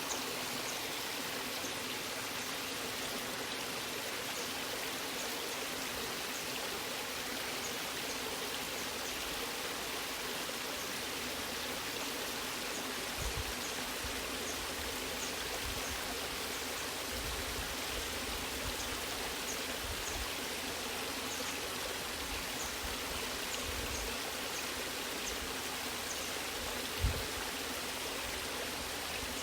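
Waterfall: water rushing steadily, with a few low thumps, one sharper near the end.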